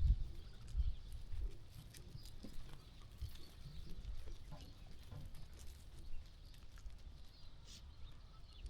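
Sheep grazing and moving about: scattered soft clicks and rustles over a low rumble, the rumble loudest at the start.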